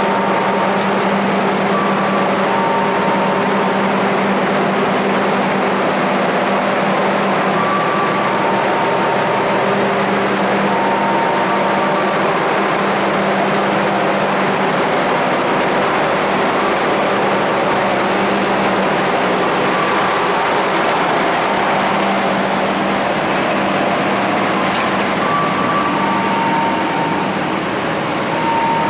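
Passenger train coaches rolling past along the platform: a steady rumble of wheels on rails, with short high tones coming and going.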